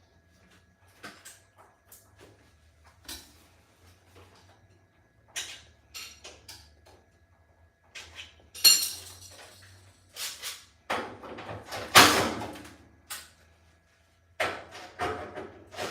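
Irregular clicks and knocks of parts and tools being handled during a repair, with a metallic clank about nine seconds in and a longer scraping clatter around twelve seconds, over a faint low hum.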